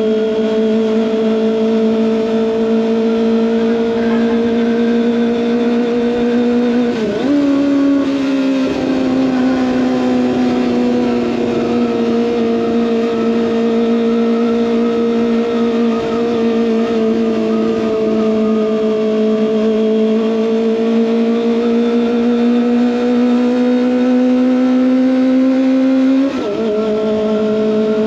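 Kawasaki ZX25R's 249 cc inline-four through an SC Project exhaust, heard from on the bike, running at steady high revs. The engine note jumps briefly about a quarter of the way in, then slowly sags and climbs again, and drops suddenly near the end as the gear changes.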